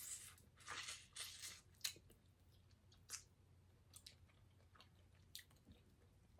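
Close-miked chewing of air-fried king crab meat: wet smacking and clicking mouth sounds, busiest in the first two seconds, then scattered single clicks.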